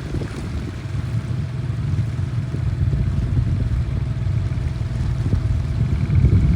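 A 7 hp four-stroke outboard motor running steadily under way, a continuous low engine rumble.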